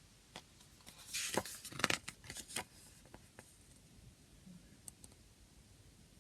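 A CD case and its packaging being handled: a short rustle about a second in, then a quick run of plastic clicks and taps, and a couple of faint clicks later.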